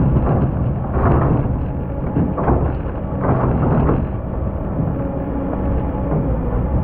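Excavator's diesel engine running steadily under load, with several short, harsh scraping bursts as the bucket cuts through hard-packed old sand.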